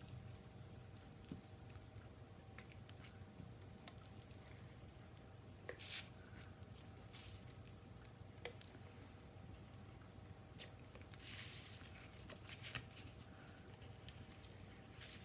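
Faint handling of card and paper: scattered light taps and short rustles, with a longer rustle about two-thirds of the way through, over a steady low electrical hum.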